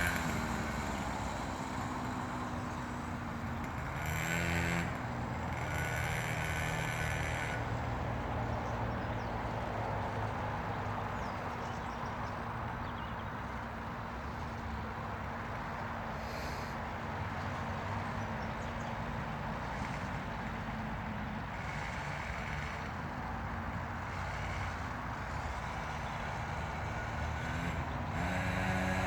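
Small motocross bike's engine running as it rides away, its pitch dropping and fading to a distant drone, then growing louder and higher again near the end as the bike comes back.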